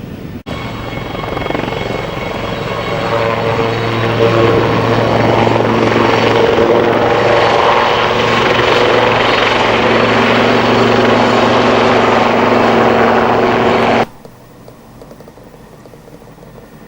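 CH-47 Chinook twin-rotor helicopter, loud, with a steady low hum under dense rotor and engine noise that swells over the first few seconds, holds steady, and is cut off abruptly near the end, leaving a much quieter background.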